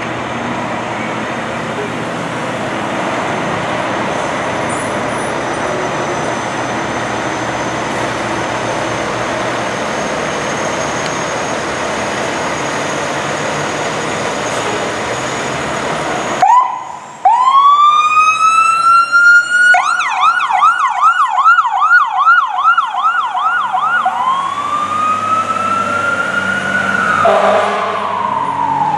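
Steady road and engine noise, then, after an abrupt break about two-thirds of the way in, an emergency vehicle's electronic siren: a rising wail, a fast yelp of about two to three cycles a second, then the wail again rising and falling.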